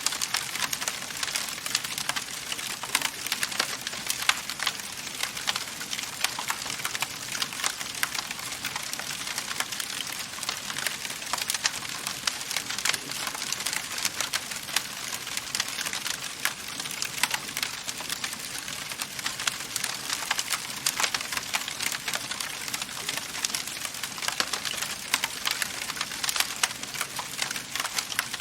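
Wood fire burning in a fireplace, with a dense, steady run of small sharp crackles and pops over a soft hiss.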